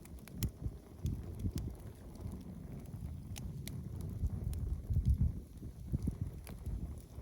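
Wood fire burning in a fireplace, crackling with irregular sharp pops and snaps over a low rumble.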